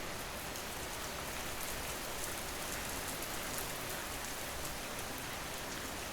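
Steady rain: an even hiss of falling rain with a fine patter of drops.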